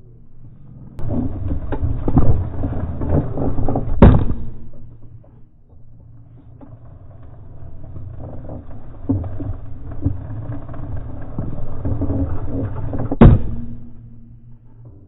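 Single-speed bicycle drivetrain under hard pedalling: the 1/8-inch chain rattles and grinds, with two loud sharp bangs, about four seconds in and again about nine seconds later. The bangs are the chain violently jumping back into line on the sprocket after the laterally flexing steel frame pulls it toward derailing.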